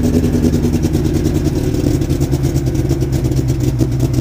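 Fiat 147's naturally aspirated 1.5 engine idling steadily with a throaty exhaust note.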